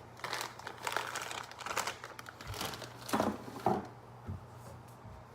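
Homemade glue slime being squished and worked by hand, making irregular crackling, squelching sounds that die down about four seconds in.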